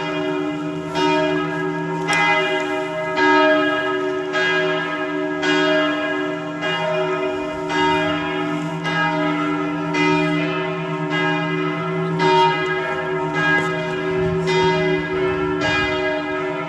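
Church bells ringing, a new stroke about once a second over the ringing of the earlier ones.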